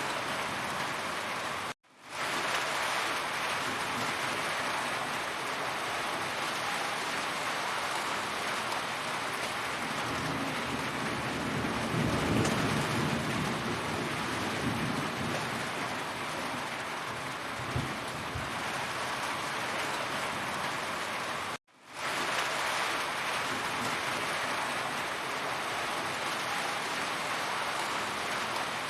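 Heavy rain falling steadily, with a low rumble swelling up and dying away near the middle. Twice the sound cuts out suddenly for a moment and fades back in.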